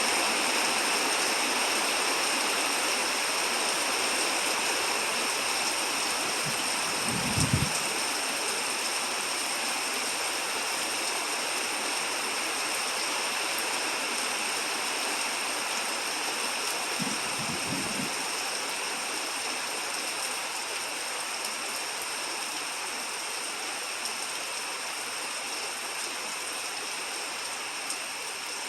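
Steady heavy rain, a continuous rushing hiss that eases slightly over the time. Two brief low thuds break in, about seven seconds in and again about ten seconds later.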